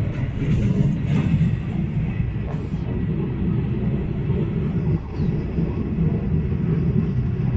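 Passenger train running steadily along the track: a continuous low rumble of the wheels and carriage, heard at an open doorway.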